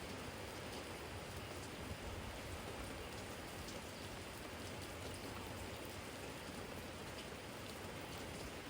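Steady spring rain falling on a garden, with scattered drops ticking on a jar.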